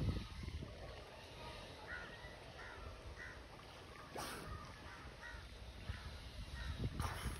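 A bird calling outdoors in a series of about six short calls roughly every half second to second. A low rumble fades out in the first half second.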